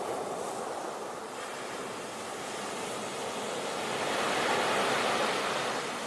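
Sea waves washing in, a steady rushing surf that swells to its loudest about four to five seconds in and then eases off.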